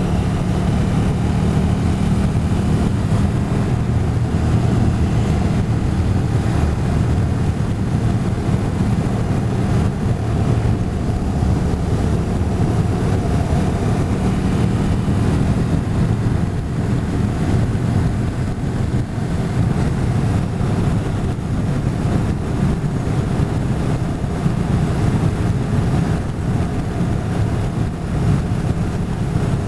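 Motorcycle riding along at a steady speed: the engine runs with an even note under heavy wind noise on the microphone.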